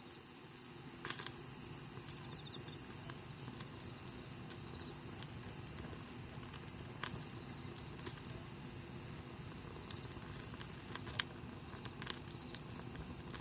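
Campfire burning with occasional sharp crackling pops, a handful spread over the stretch, under a steady very high-pitched hiss that drops off abruptly about eleven seconds in.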